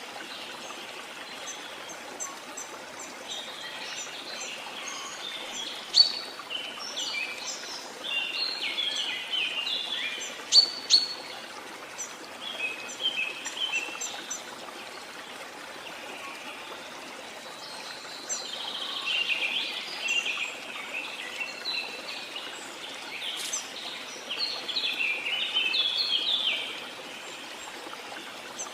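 Rainforest ambience: birds chirping in bursts of quick notes over a steady hiss of heavy rain. A few sharp clicks stand out, about six seconds in and twice around ten seconds in.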